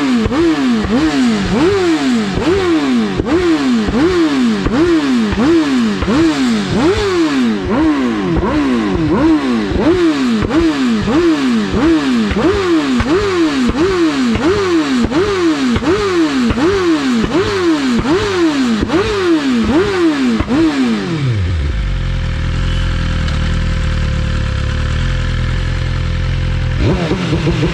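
BMW S1000RR's inline-four engine revving up and dropping back over and over, about once a second. About twenty seconds in, the revs fall away to a low, steady idle, and the engine note picks up again just before the end.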